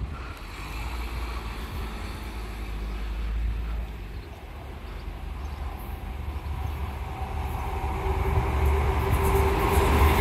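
Diesel High Speed Train led by a Class 43 power car approaching, its engine and wheels growing louder toward the end.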